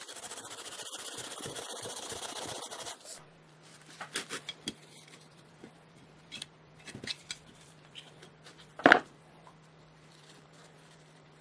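Hand work on old compressor parts: a steady scraping for about three seconds, then scattered light clicks and taps and one sharper knock about nine seconds in, over a low steady hum.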